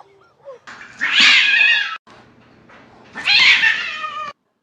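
Two loud, harsh animal cries, each a little over a second long, the second starting about a second after the first ends.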